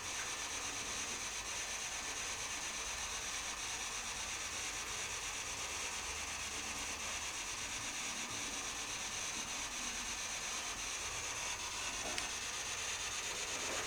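A steady, even hiss, brightest in the treble, with no voices or distinct knocks.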